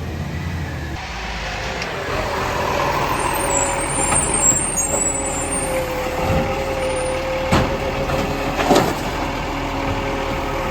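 Garbage truck running, with a steady whine held from about three seconds in and two sharp knocks in the second half.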